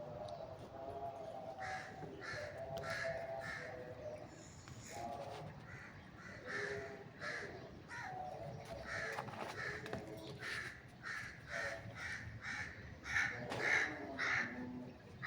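Parrots calling in a long series of short repeated squawks, a few a second, with lower warbling chatter mixed in. The calls grow louder about thirteen seconds in.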